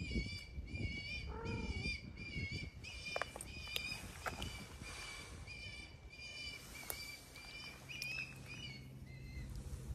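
A songbird chirping over and over, short high calls about two to three a second that thin out and stop near the end. Under it, cats crunch dry food, and there is a short lower call about one and a half seconds in.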